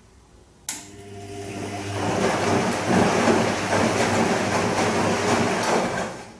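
Bosch Serie 2 VarioPerfect washing machine starting up with a click and a motor hum, then a swishing rush that builds over a second or so and stops about six seconds in: one short burst of the drum working between pauses on the gentle Silk program.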